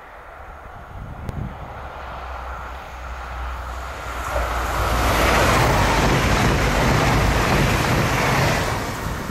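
AGC regional multiple-unit train approaching and passing at speed: a rush of wheels on rail and air that grows, peaks as the train goes by, and starts to fade near the end.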